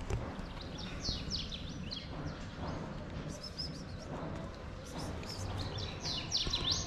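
Small birds chirping in clusters of short, quick, falling notes that come and go every second or two, over a low, steady background noise.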